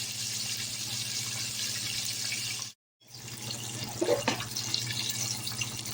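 Chicken wings frying in hot oil in an uncovered pan, a steady sizzle. It breaks off for a moment about halfway through, then carries on.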